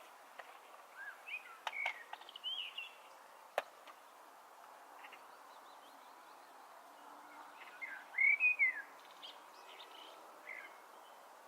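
Birds chirping in short bursts of quick rising and falling calls, one cluster about a second in and a louder one near the end, over faint steady background noise, with a few sharp clicks.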